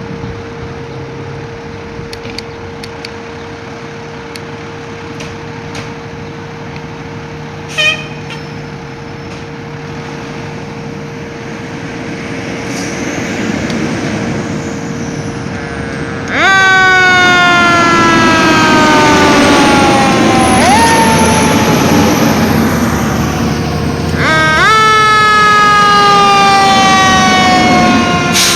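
Fire apparatus responding: vehicle noise building with a steady tone, and one brief horn blast about eight seconds in. From about sixteen seconds a loud fire-truck siren sounds, its pitch falling slowly, then jumping sharply back up twice.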